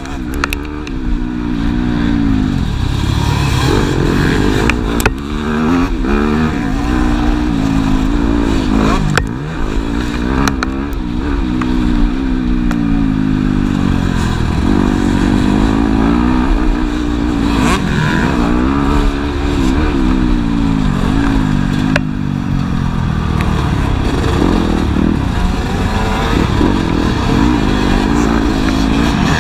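Motocross bike engines revving hard and easing off again and again as they accelerate and shift, the engine pitch rising and falling many times.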